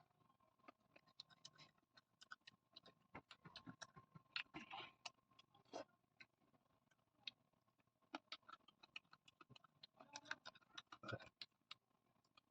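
Faint, close-miked chewing of food, heard as many small, irregular, crisp clicks and crackles, with a few louder clusters.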